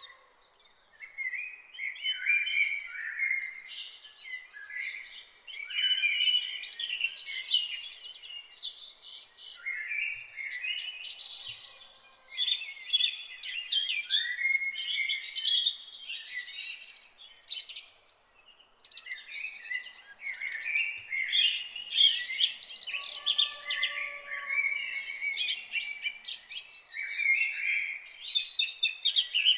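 Several songbirds singing together in a dense morning chorus of overlapping chirps and trills, with a few lower drawn-out notes now and then.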